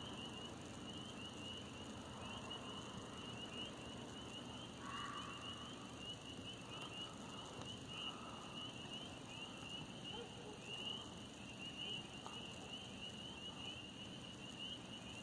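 Steady pulsing high-pitched chorus of night insects, with faint far-off dog barks about five seconds in and again around seven to eight seconds.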